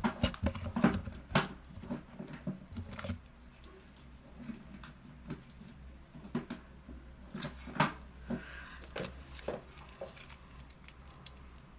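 Hands squeezing and poking slime, making irregular sticky pops and clicks, busiest in the first three seconds and then scattered.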